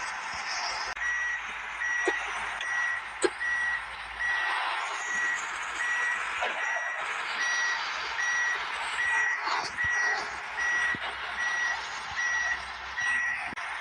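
Dump truck's reversing alarm beeping at a steady, even pace over a background hiss, with a few sharp clicks.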